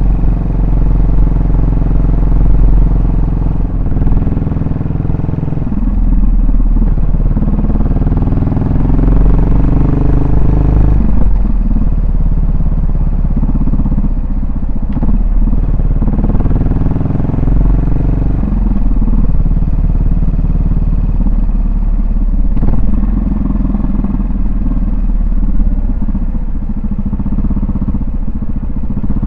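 Yamaha SR400's air-cooled single-cylinder four-stroke engine and exhaust while riding. Its pitch rises and falls several times as the bike accelerates, shifts gear and eases off.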